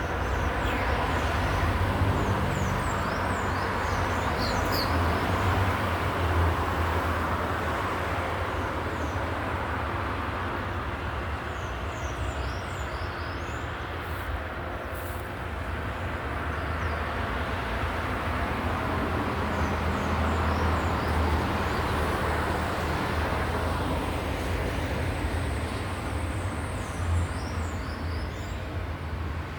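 Steady low rumble of a running vehicle or road traffic, with clusters of short high chirps now and then.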